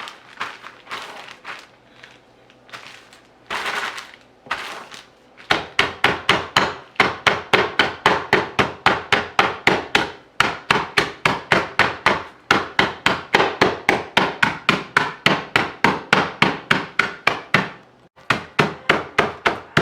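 Knife chopping honey roasted peanuts on a cutting board: a few scattered knocks, then about five seconds in a fast, steady run of strikes, about four a second, that stops shortly before the end.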